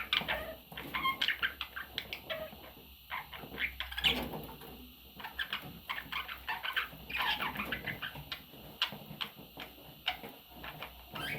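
Budgerigar chattering: quick runs of short chirps, squeaks and clicks, louder near the start, around four seconds in and again around seven seconds in.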